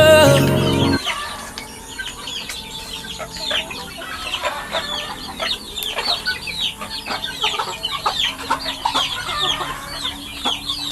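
Domestic chicks peeping in a group: many short, high, falling cheeps overlapping continuously. The last notes of a pop song cut off about a second in.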